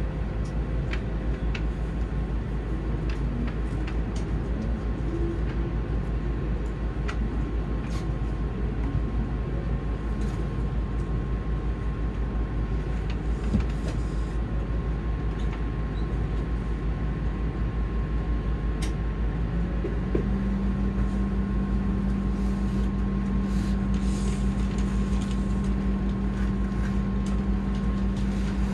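Steady running noise heard inside the passenger cabin of an N700S Shinkansen train: a low rumble with a thin steady whine and occasional faint clicks. About 20 seconds in, a steady low hum sets in and holds.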